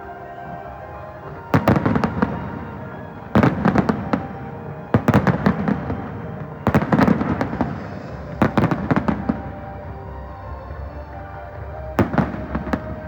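Fireworks going off: six loud bangs, most about a second and a half to two seconds apart with a longer gap before the last, each followed by a short crackle. Music plays steadily underneath.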